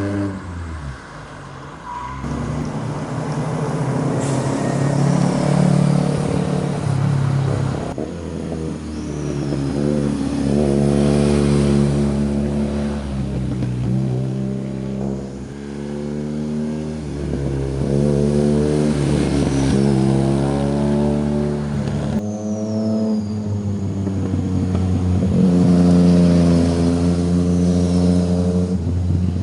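Sport motorcycle engines revving and accelerating past, one machine after another, their pitch rising through each gear and dropping at the shifts. The sound changes abruptly a few times.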